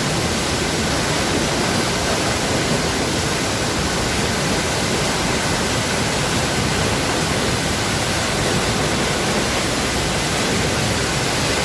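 A waterfall pouring close by: a loud, steady, unbroken rush of falling water.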